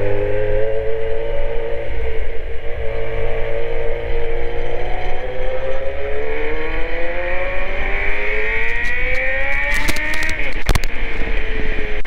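Kawasaki Z900 inline-four engine accelerating, its pitch rising steadily for several seconds, then dropping sharply about ten seconds in as it shifts up a gear.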